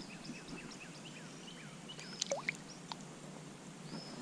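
Small birds chirping and singing, with many short whistled notes and a brief louder burst of calls about two seconds in.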